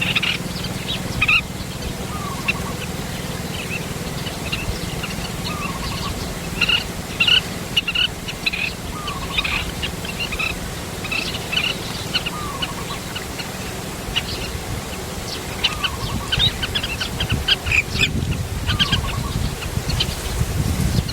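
Birds calling: many short, high chirps in quick runs, with a lower down-slurred call repeated every couple of seconds.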